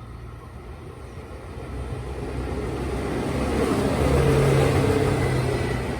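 Train running with a low rumble and steady hum that swell to a peak about four seconds in, then ease off.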